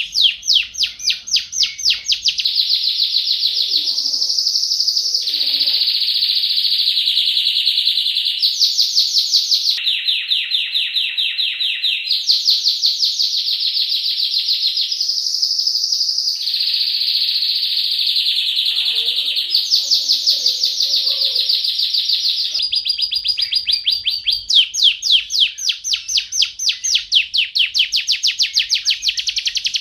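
Domestic canary singing a long, continuous song. Fast trills of rapidly repeated notes alternate with smoother rolling phrases, and the phrase type changes abruptly every few seconds.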